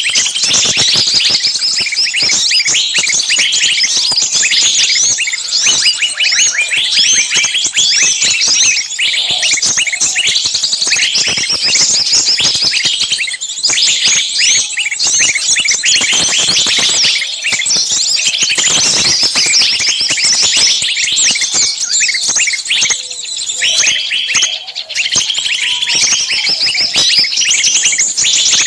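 Many small birds chirping and trilling at once in a dense, unbroken chorus of high, quick notes.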